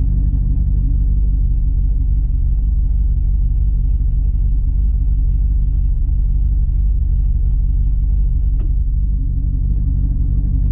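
Twin-turbo GMC pickup heard from inside the cab, a steady low engine and road drone at an even pace with no revving. A single sharp click late on.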